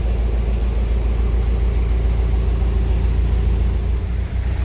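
A narrowboat's diesel engine running steadily at low revs, with a fast, even low throb.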